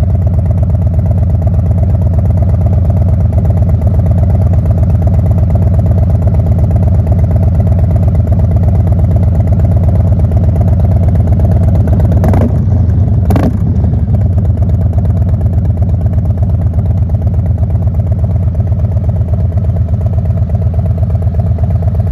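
Harley-Davidson Low Rider ST's Milwaukee-Eight 117 V-twin idling steadily through a short, large-bore W Baby Bazooka aftermarket muffler, a loud, deep, lumpy exhaust pulse. Two brief sharp clicks about a second apart are heard around the middle.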